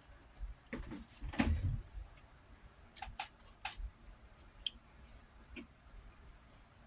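Scattered small clicks and taps, with a louder cluster of knocks about a second and a half in.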